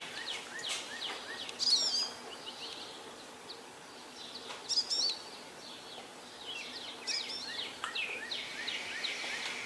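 Songbirds singing. A complex warbling phrase comes roughly every two to three seconds, with many short, quick chirps between the phrases.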